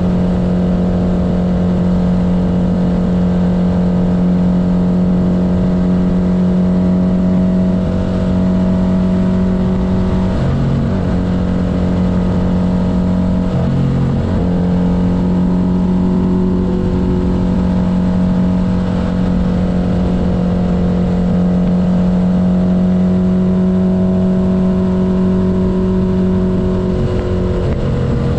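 1972 Honda CB500's air-cooled inline-four engine running steadily under way on the road. The engine note dips briefly twice near the middle and changes again just before the end.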